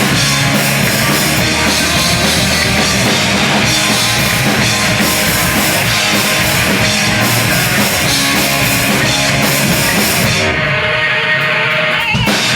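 Live hardcore band playing an instrumental passage: distorted electric guitars and a drum kit with cymbals. The cymbals drop out about two-thirds of the way through, and a sharp hit near the end brings the full band back in.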